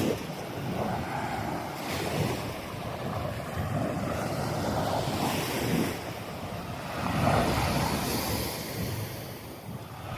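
Small sea waves washing onto a sandy beach in swells that rise and fall, loudest about seven seconds in, with wind buffeting the microphone.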